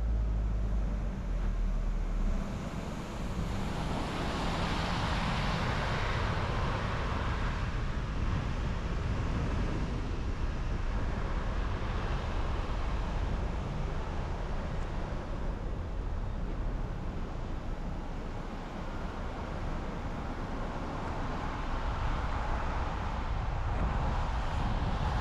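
Steady road noise of a car driving on a highway: a low tyre rumble with wind rush, swelling louder for a few seconds about four seconds in.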